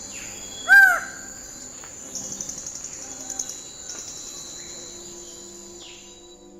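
A bird gives one loud, arched call about a second in, over a steady high-pitched insect drone. A short rapid trill follows a couple of seconds later.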